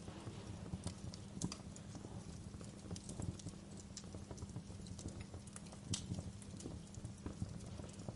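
Wood fire burning in a fireplace, with irregular crackles and pops over a steady low rumble; the sharpest pops come about a second and a half in and about six seconds in.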